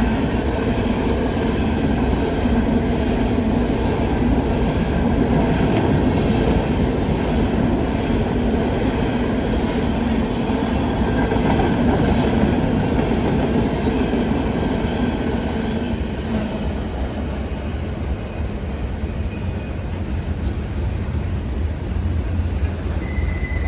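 A train rolling past on the tracks, a continuous rumble of wheels on rail with a low hum that eases off about two-thirds of the way through.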